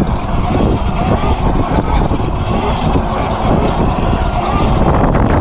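Electric pit bike riding: wind noise on the microphone over tyre rumble, loud and steady.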